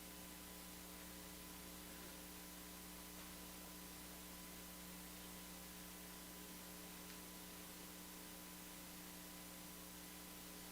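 Near silence: a steady, low electrical mains hum with faint hiss, unchanging throughout.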